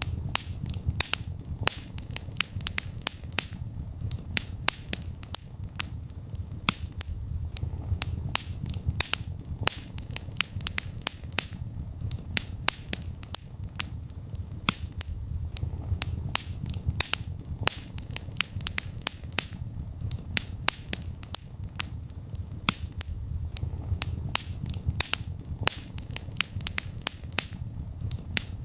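Wood fire burning in a fireplace: frequent sharp, irregular crackles and pops, several a second, over a steady low rumble of the flames.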